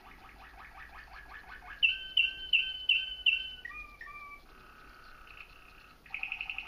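A songbird singing a varied song: a fast trill, then five loud sharp notes about three a second, a few lower two-note calls and a held buzzy note, with the fast trill starting again about six seconds in.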